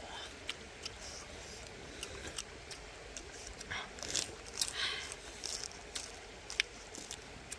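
Crisp lettuce leaf being bitten and chewed close to the microphone: irregular crunches and wet mouth clicks, busiest about halfway through.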